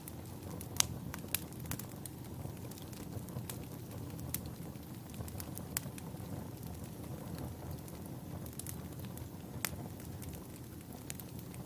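Wood fire burning in a fireplace: a steady low rumble of flames with scattered sharp crackles and pops, the loudest pop a little under a second in.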